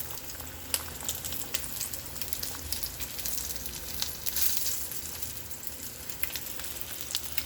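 Sausages frying in a pan on the stove, a steady sizzle with scattered sharp crackles. A louder hiss swells briefly about four seconds in.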